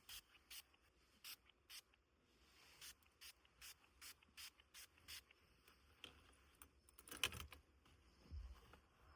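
Quiet scratching strokes at about two or three a second, then a louder rustle about seven seconds in and a soft thump shortly after.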